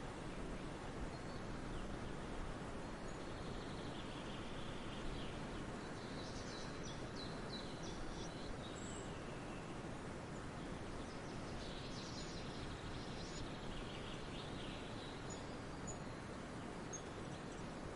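Forest ambience: a steady background hiss with faint bird chirps and trills, clustering a few seconds in and again in the second half.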